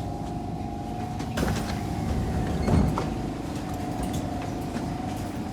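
Interior of a Kawasaki C151 MRT train: a steady low rumble with a continuous mid-pitched hum, with a knock about a second and a half in and a louder thump near the middle.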